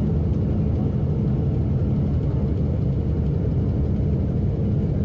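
Steady low rumble of an airliner in flight, heard from inside the cabin, after one of its engines has blown apart.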